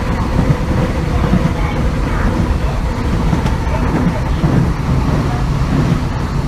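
An MTR East Rail Line MLR (Metro-Cammell) electric multiple unit running, heard inside the passenger car: a steady heavy rumble of wheels on rail, with a faint traction-motor hum whose pitch shifts a little partway through.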